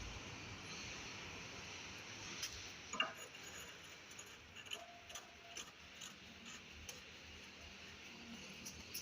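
Faint, scattered clicks and light clinks of small hard objects being handled, the sharpest about three seconds in, over a low steady hiss.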